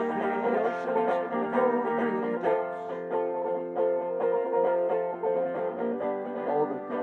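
Instrumental break of a song, with no singing: plucked string instruments, guitar or banjo, playing a steady run of notes.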